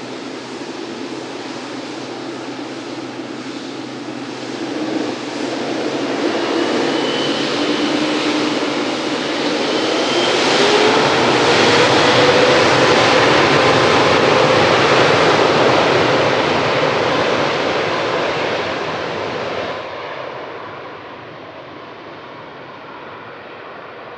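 Boeing 777-9's twin GE9X turbofan jet engines at high power. The sound grows louder over several seconds with a rising whine, is loudest through the middle and falls away near the end as the jet passes.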